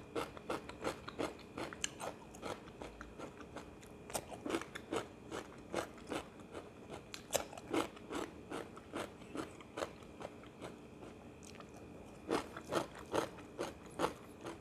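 Close-up mouth sounds of chewing raw cucumber: crisp crunches coming in short runs of a few per second, with brief pauses between runs.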